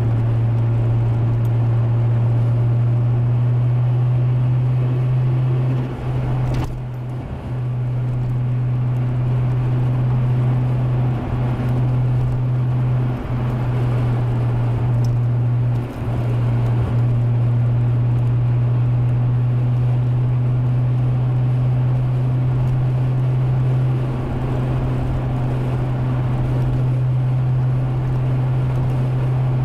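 Toyota Supra's turbocharged 1JZ straight-six engine droning steadily at a constant low pitch while driving. The sound briefly dips a few times, longest about six seconds in.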